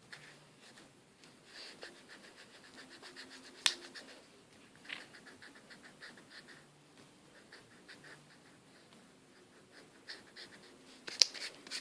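Pencil sketching on paper: a run of faint, short scratchy strokes, with one sharper tap a little under four seconds in.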